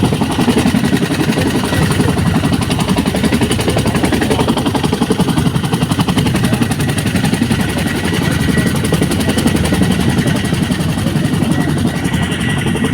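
Helicopter running steadily: a loud, rapid, even beat of the rotor blades, with a faint steady high whine.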